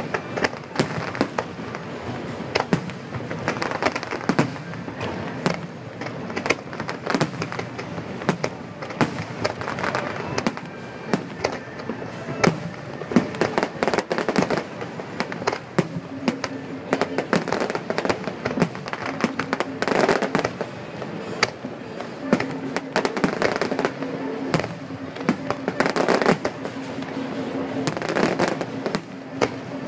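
Fireworks display: a dense, continuous run of shells bursting in sharp bangs and crackles, with no pause. From about halfway through, a steady low hum runs under the bangs.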